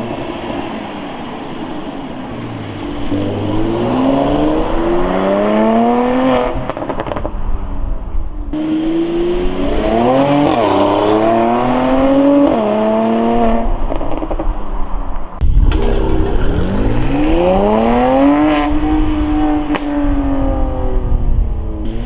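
Mercedes-AMG C43 accelerating hard past in several runs: the engine note climbs, drops sharply at each upshift and climbs again, then rises and falls as the car goes by.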